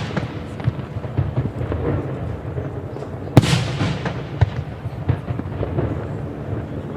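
Fireworks display: one loud shell burst about halfway through, its bang trailing off for a second or so, with a few smaller pops around it over steady background noise.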